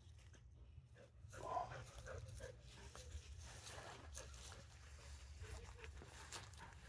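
Faint sounds of a dog close by, with one short, louder pitched sound about a second and a half in.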